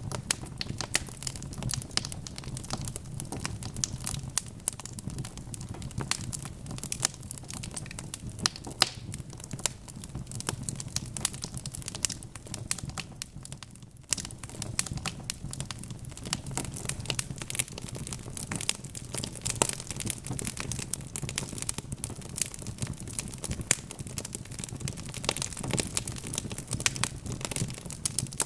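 Wood fire burning in a fireplace: a dense run of sharp crackles and pops over a steady low rumble of the flames, easing off briefly about halfway through.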